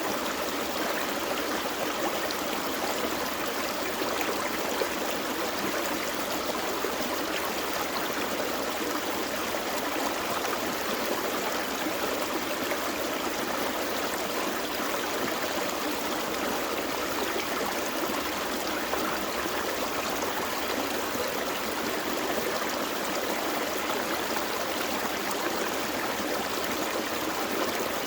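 Small forest creek flowing and gurgling over rocks, a steady rush of water.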